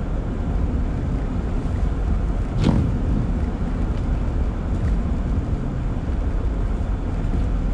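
Car cabin road noise while driving on wet, slushy pavement: a steady low rumble of tyres and engine, with a single sharp knock about two and a half seconds in.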